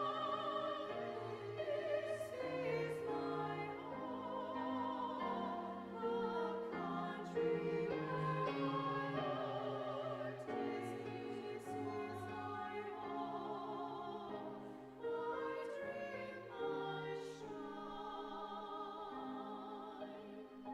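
Women's vocal ensemble singing a slow hymn-like song in sustained, overlapping parts with vibrato.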